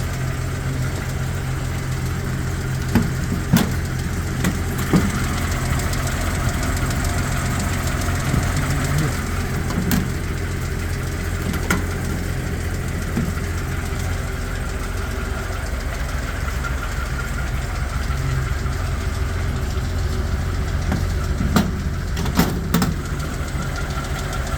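1950 Bentley Boattail Speedster's engine idling steadily just after a cold start, running smoothly with no odd noises. A few short sharp clicks come at scattered moments over the idle.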